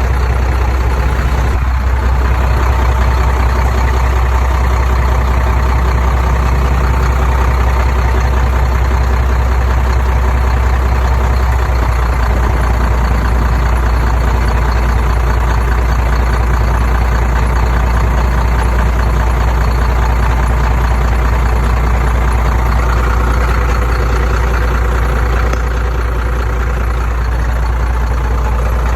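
Heavy diesel engine of construction machinery running steadily, with a deep constant low hum and no sharp changes in load.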